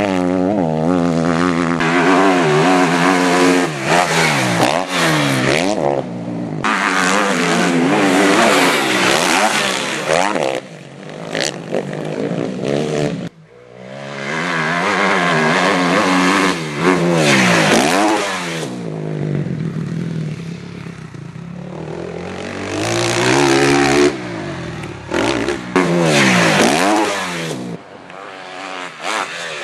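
Motocross motorcycle engines revving hard, the pitch climbing and dropping again and again as the bikes run through the gears and go past, with a short drop-off about halfway through.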